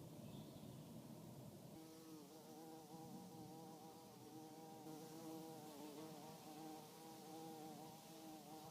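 Red mason bee buzzing in flight: a faint, steady wingbeat hum that starts about two seconds in and wavers slightly in pitch.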